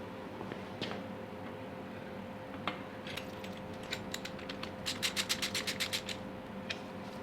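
Ratchet wrench clicking, with a few scattered clicks and then a quick run of about a dozen even clicks in roughly a second near the end, over a steady low hum.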